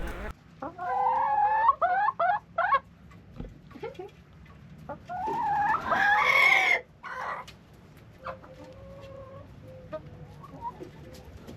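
Free-range chickens clucking, a run of short calls followed by one longer, louder call about five seconds in, then fainter clucks.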